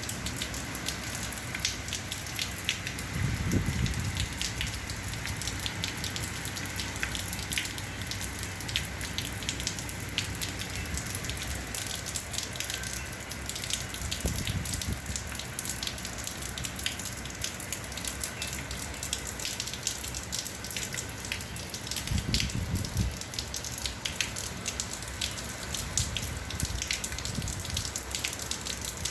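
Rain falling hard in the hurricane's wind, with many sharp drops striking and dripping close by. Three brief low rumbles come through, about 3 s, 14 s and 22 s in.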